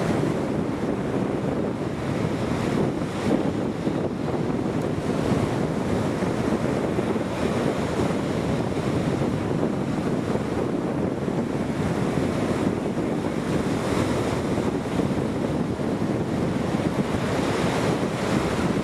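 Steady, unbroken rushing noise of wind buffeting the microphone.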